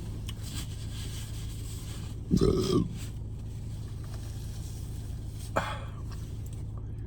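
A short, low vocal sound from the eater, like a grunt or burp, about two and a half seconds in, over a steady low hum. A brief faint sound follows near the end.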